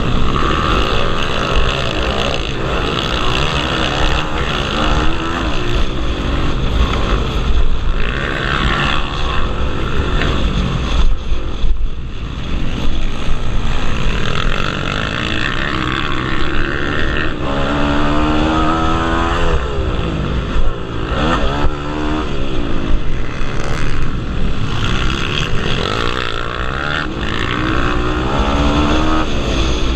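Pit bike engines racing on a motocross track, revving up and down as the bikes accelerate and shift. Past the middle and again near the end, one bike close by revs hard several times, its pitch rising and falling.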